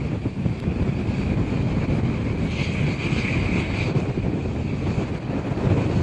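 Airliner engines running with a steady low rumble and a higher whine that grows stronger for a second or so midway, with wind buffeting the microphone.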